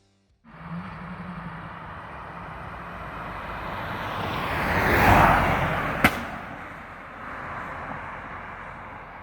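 A car driving past, growing louder to a peak about five seconds in and then fading, with one sharp crack about six seconds in.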